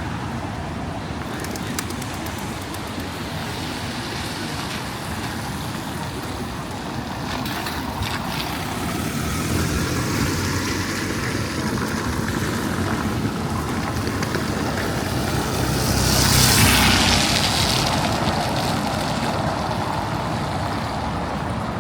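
City street ambience with steady traffic noise. A vehicle passes close, growing louder to a peak about sixteen to seventeen seconds in, then fading.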